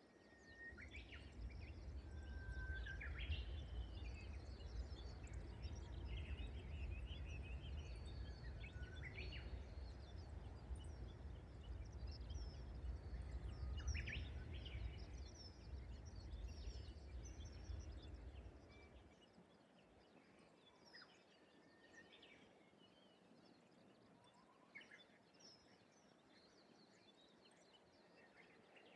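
Wild birds singing and calling over a rice paddy, among them the whistled song of Japanese bush warblers (uguisu). A low rumble runs beneath the birdsong and stops about two-thirds of the way through, leaving only the birds.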